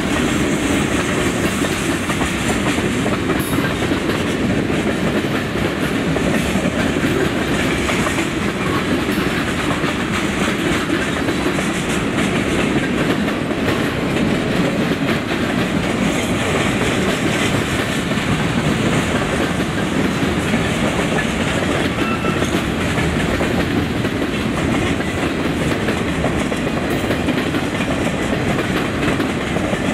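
A train's cars rolling steadily past on the track, their wheels clacking over the rail joints.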